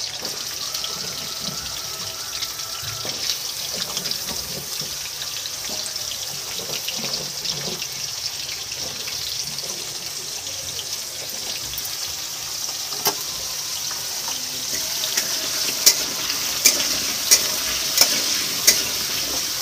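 Cubed potato and taro frying in hot oil in a metal wok, a steady sizzle. Near the end a spatula stirs them, knocking against the wok about five times in quick succession.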